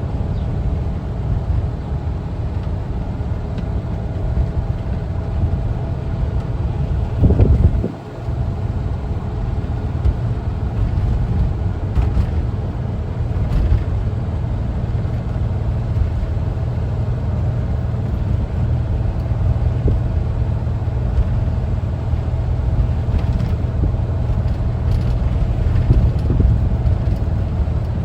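Air-cooled Volkswagen Type 4 flat-four engine of a 1974 Westfalia camper bus running under way, a steady low rumble mixed with road noise. About seven seconds in it briefly rises, then drops off sharply for a moment before settling back.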